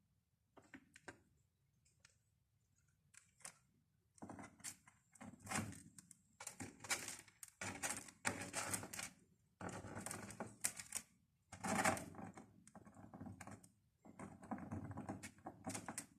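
Cockatiel pecking at seeds on the floor, quick runs of beak taps and seed cracks. A few scattered taps at first, then dense bursts from about four seconds in.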